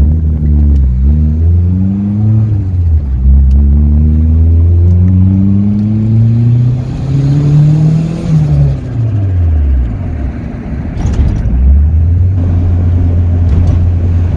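Turbocharged Honda D16Z6 SOHC VTEC four-cylinder engine heard from inside the car while driving. The pitch climbs through the gears with brief dips at the shifts, about one and three seconds in, and rises to a peak about eight seconds in. It then falls away as the throttle comes off and settles into a steady drone near the end.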